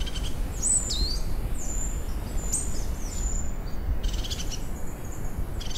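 Small birds calling: several short, high, thin whistled notes, some sliding downward, then a quick run of rapid notes about halfway through, over a steady low rumble.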